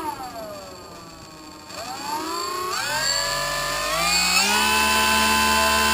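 A motor running with a whining tone. Its pitch sinks away at first, then climbs in a couple of steps from about two seconds in and holds steady, as the motor speeds up and settles.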